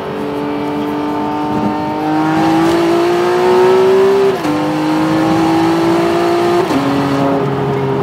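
Ferrari 599's V12 engine accelerating through the gears, heard from inside the cabin. The revs climb steadily, and two quick upshifts drop the pitch, about four and a half and about seven seconds in.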